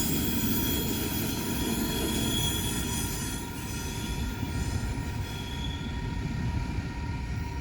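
Train cars rolling past on the rails, a steady rumble with high, steady wheel squeal ringing over it. It eases off a little about halfway through.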